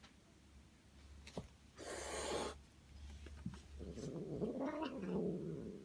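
Domestic cat vocalising: a short hissy burst about two seconds in, then a low drawn-out yowl lasting about two seconds near the end.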